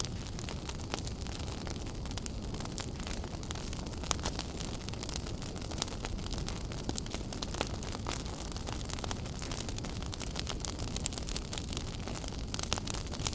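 Wood fire in a fireplace crackling and popping steadily over a low rumble of burning, with a few sharper pops standing out.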